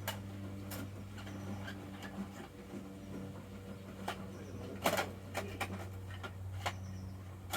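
Plastic clicks and clacks of a Bruder toy garbage truck being worked by hand, scattered and irregular with a quick cluster about five seconds in, over a steady low hum.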